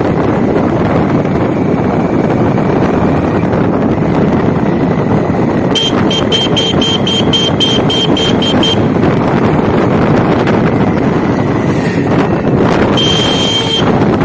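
Steady engine, road and wind noise from a Hero Honda Splendor motorcycle on the move. About six seconds in, a rapid string of about a dozen short high beeps comes at roughly four a second, and near the end there is one longer high beep.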